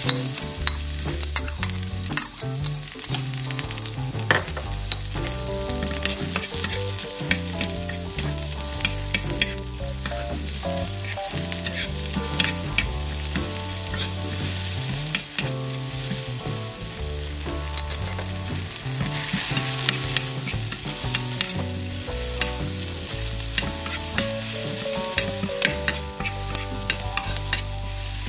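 Food frying in hot oil in a pan and being stirred: a steady sizzle with frequent sharp scrapes and clicks of the spatula against the pan.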